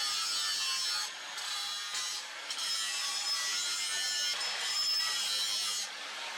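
Hand tool rasping back and forth in long strokes, about four of them with short pauses between, like a saw or file working the material.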